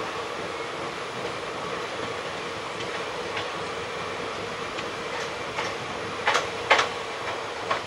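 Passenger express train running on the rails with a steady rumble. In the second half come several sharp wheel clacks over the track, the two loudest close together, as the wheels pass rail joints or points.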